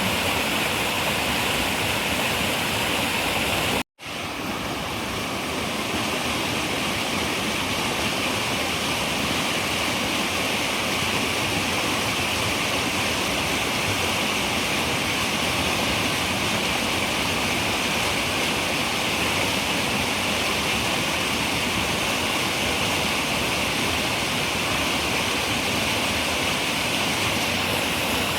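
Steady rushing of a running river, an even water noise strongest in the upper-middle range. About four seconds in it cuts out for an instant and swells back over a second or two, an edit join in the recording.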